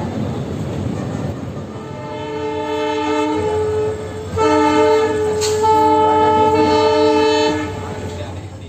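Train horn sounding over the steady rumble of the moving train: a held multi-tone chord starts about two seconds in. It breaks briefly about four seconds in, then resumes and stops a little before the end as the rumble fades.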